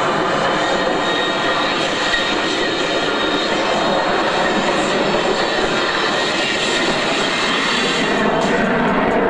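F-22 Raptor's two F119 jet engines, heard as loud, steady jet noise that holds level throughout.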